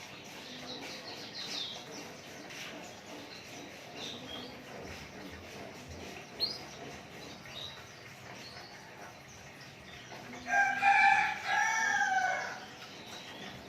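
A rooster crows once, loudly, in the second half, a drawn-out call of about two seconds, over faint scattered chirps of small birds.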